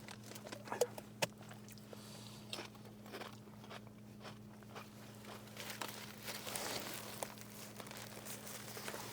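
A person biting and chewing crunchy food, with scattered small crunches and clicks, over a steady low hum.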